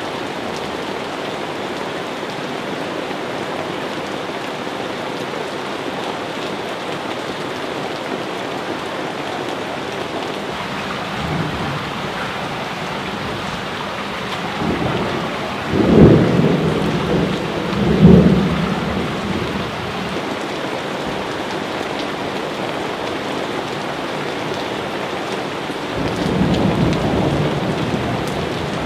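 Steady heavy rain with thunder: two loud close claps just past the middle, then another rumble rolling in near the end.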